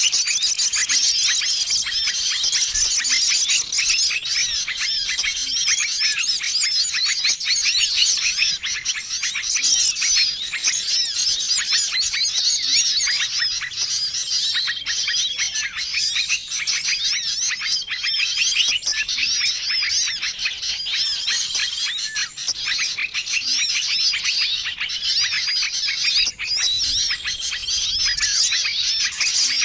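Bird-lure recording of many small songbirds calling at once, a dense, continuous chatter of chirps and twitters. A short, steady whistle recurs every few seconds above the chatter.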